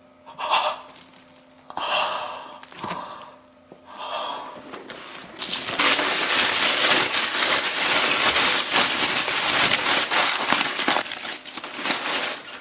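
Aluminium foil crinkling as a many-layered foil wrap is handled and torn open: a few short rustles, then a long spell of dense, loud crackling.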